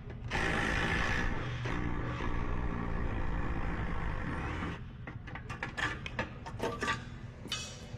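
A power tool runs steadily for about four and a half seconds, working out the spring bolts on an exhaust pipe joint. Then a run of sharp metallic clinks and taps follows.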